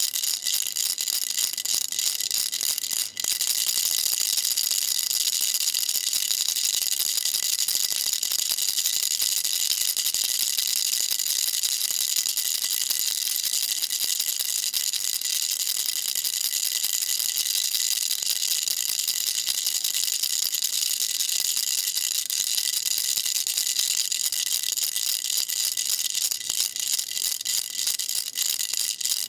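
Baby rattle shaken continuously, its beads making a dense, steady stream of fast clicks, with a momentary break about three seconds in.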